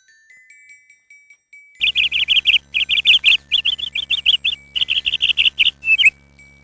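Recorded bird call: four quick runs of high, rapid chirps starting about two seconds in, each run lasting under a second, over a faint low hum. Soft tinkling glockenspiel-like notes come before it.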